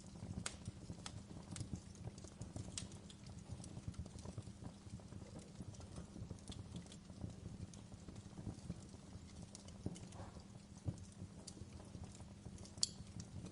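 Wood fire crackling, with irregular sharp pops over a low, steady rumble of the flames.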